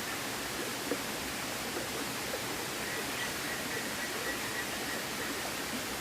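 Steady rushing of a flowing river, with a couple of faint clicks about a second and two seconds in.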